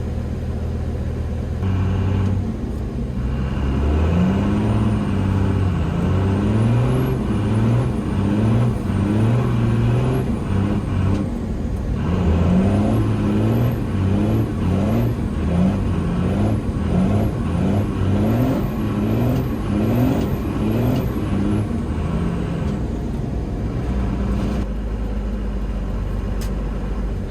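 Cummins 5.9 turbo-diesel inline-six idling, then revved up and down over and over, about once a second, for most of the time, before settling back to idle. A high turbo whistle rises and falls with each rev.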